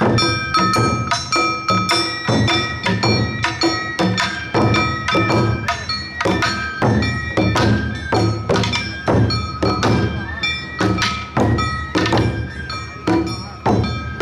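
Awa Odori narimono band playing: taiko drums struck in a steady quick beat under the ringing of the kane hand gong.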